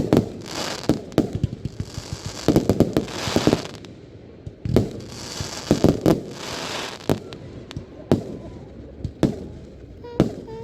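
Fireworks going off: a run of sharp bangs, with three spells of dense crackling from bursting shells in the first seven seconds and single booms spaced further apart after that.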